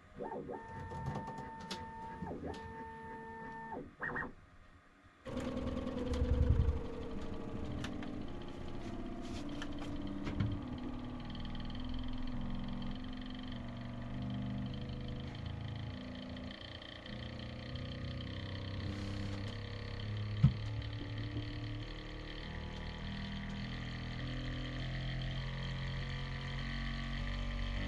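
Bambu Lab P1S 3D printer's stepper motors running in short moves. First comes a high whine that starts and stops in runs, then after a brief pause a steady run of low motor tones that jump to a new pitch every half second or so, over a constant fan hiss.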